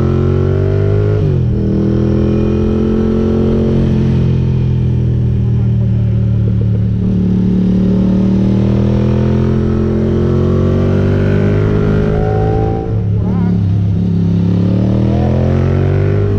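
Ducati GT1000's air-cooled V-twin running through Termignoni exhaust pipes while the bike is ridden. The revs rise and then drop sharply about a second in at a gear change, hold steady for a long stretch, fall off briefly near the end and then climb again.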